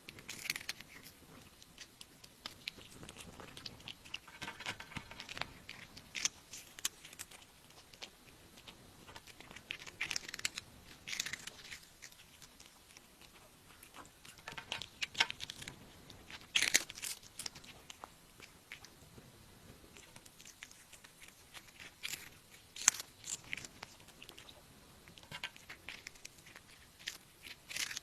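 A cat chewing and crunching, in irregular bursts of sharp crunches with short pauses between.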